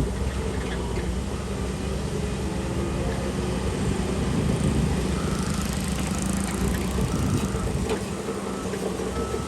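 Shantui DH17C3 bulldozer's diesel engine running steadily under work, with rattling and scraping of tracks and stone fill. A hissing swell rises about five seconds in and fades by about seven.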